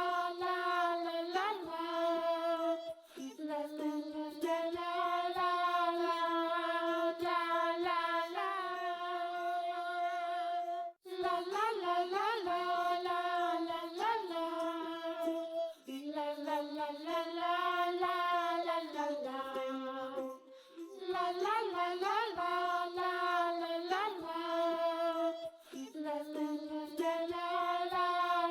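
Background music: a children's song melody sung in a high, child-like voice, in held notes with short breaks between phrases.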